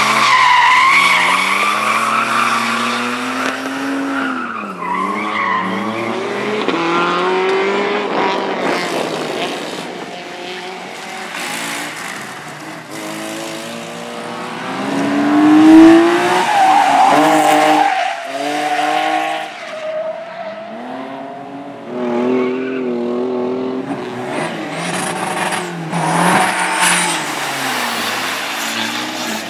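Rally cars driven hard on a rally course, engines revving up and falling back again and again through gear changes and corners, with tyre squeal as they slide. The loudest moment comes about halfway through, as an engine climbs in pitch on a close pass.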